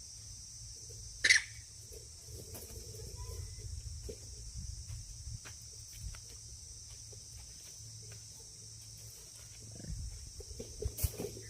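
Steady high chirring of insects, with one short, sharp animal cry about a second in and a few knocks near the end.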